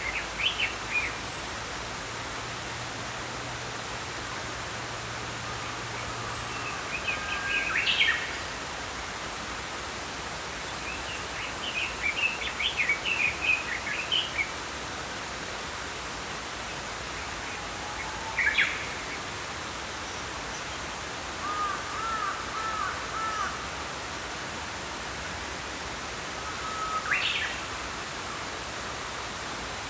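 Small songbirds singing short chirping phrases every few seconds over the steady rush of a flowing brook.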